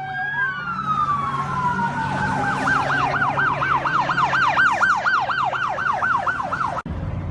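Police car siren on a code 3 run: a slow rising-and-falling wail that switches about two and a half seconds in to a fast yelp, about four to five cycles a second, then cuts off suddenly near the end. A steady low vehicle hum lies underneath.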